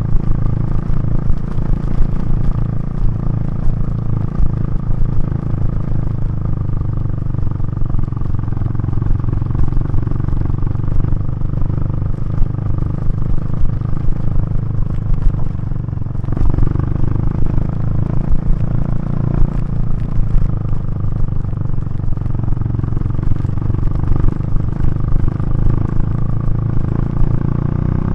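KTM 390 Duke's single-cylinder engine through its Remus exhaust, running under way at a fairly steady throttle. The note shifts slightly a little past halfway through.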